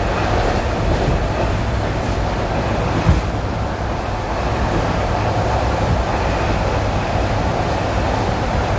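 ED9E electric multiple unit running on jointed rail, with a steady low rumble of wheels and running gear. One sharp wheel knock over a rail joint comes about three seconds in, with a few fainter knocks around it.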